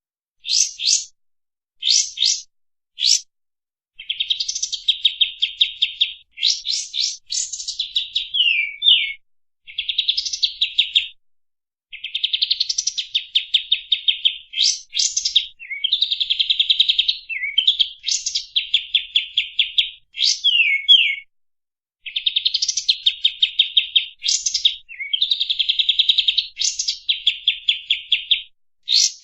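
Kapas tembak songbird singing fast, tightly packed phrases. Rapid rattling trills alternate with sharp, quick whistled sweeps, with short pauses between phrases.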